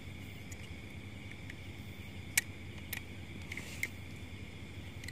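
Steady high chirring of insects, with a few short sharp clicks about two and a half, three and nearly four seconds in.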